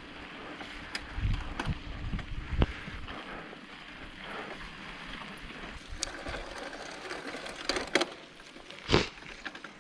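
Bicycle being ridden, with a steady rush of tyre and wind noise and scattered clicks and knocks from the bike. The loudest knock comes near the end.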